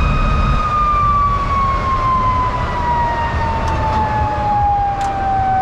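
MiG-17's turbojet engine winding down: a high whine falling slowly and steadily in pitch, over a low rumble.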